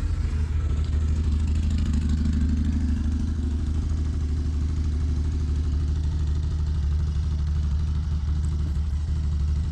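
A loud, steady, low rumbling drone with a strong deep hum.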